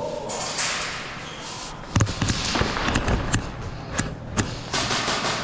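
Airsoft guns firing during indoor close-quarters play: starting about two seconds in, a string of about nine sharp, irregular cracks and clacks over two and a half seconds.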